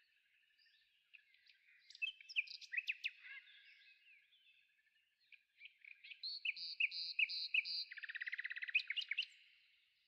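Songbirds singing: two runs of quick chirps and whistles, the second ending in a rapid trill near the end.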